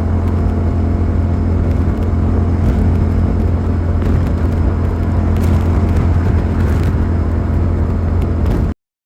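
Suzuki SV650's 645 cc V-twin engine running at a steady pace while riding. The sound cuts off abruptly near the end into dead silence.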